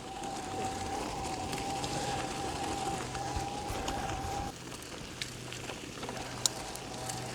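E-bike motor whining at a steady pitch under riding noise of tyres on gravel and wind. The whine cuts off about four and a half seconds in, and a few light clicks come after.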